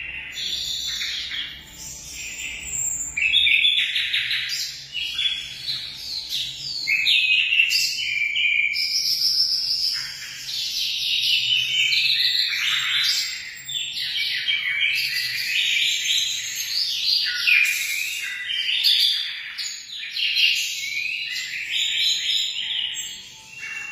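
A flock of munias (emprit) chirping, with many short, high calls overlapping throughout.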